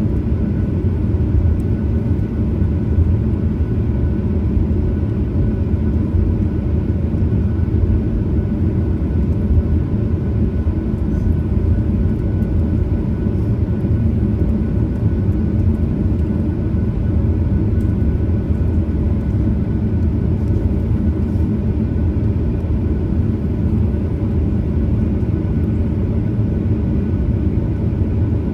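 Cabin noise of a Boeing 737-900ER with its CFM56-7B turbofan engines running steadily: a constant low rumble with faint steady whining tones and no spool-up.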